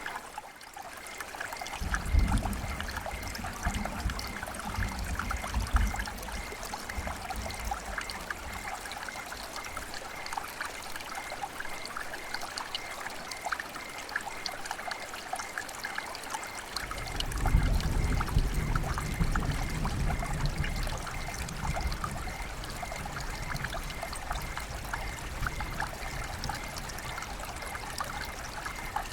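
River water flowing and babbling over stones in a steady splashy trickle. A deep low rumble swells in twice, about two seconds in and again past the middle.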